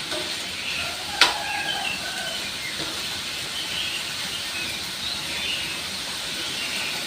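Steady hiss of food frying in a pan, with one sharp clack about a second in.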